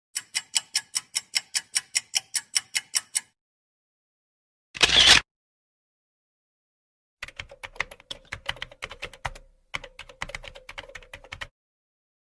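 Keyboard-typing sound effects: a rapid, evenly paced run of keystroke clicks, about six a second, for about three seconds, then a short loud burst of noise about five seconds in, then irregular typing clicks over a faint steady hum from about seven to eleven seconds.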